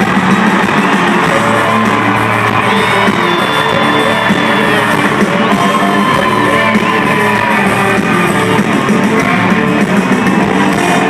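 Live country-rock band performance heard from the audience through a concert sound system: electric guitars, bass and drums with a sung vocal line, and crowd yells over the top.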